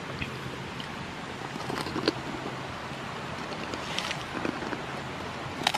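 A few short crisp crunches of a fried kerupuk cracker being bitten and chewed, over a steady outdoor hiss.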